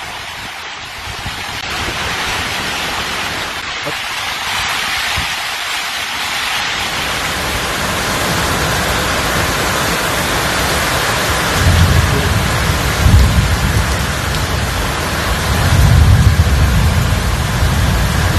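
Heavy rain pouring down as a dense, steady hiss. From about two-thirds of the way in, low rumbles come and go beneath it.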